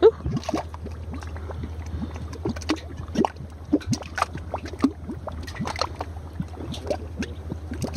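Mud pots bubbling: thick mud gurgling and popping in many short, irregular plops, several a second, as gas bursts through it.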